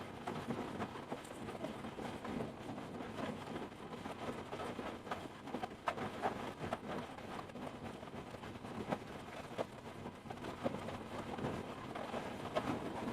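Heavy rain falling: a steady hiss dotted with many short, sharp drop impacts.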